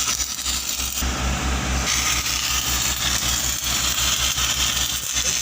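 Steady engine running with a low, pulsing throb, under the even crackling hiss of a stick-welding arc.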